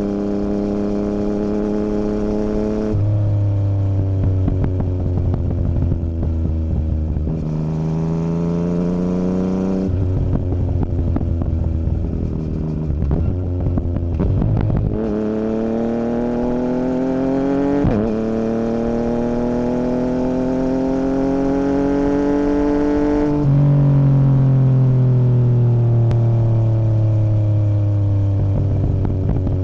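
A 2017 Yamaha MT-09's three-cylinder engine breathing through an Akrapovic Racing Line carbon full exhaust with the dB killer removed, running on the road. Its note holds steady, then changes pitch abruptly several times with throttle and gear changes, climbs steadily for several seconds in the middle, and falls away in the last few seconds.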